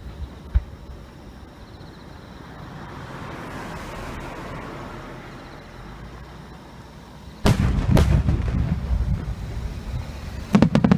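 Aerial fireworks shells bursting: a single sharp thump just after the start, a quieter stretch, then a loud bang about seven and a half seconds in, a second bang half a second later, and a rumbling run of bursts after them.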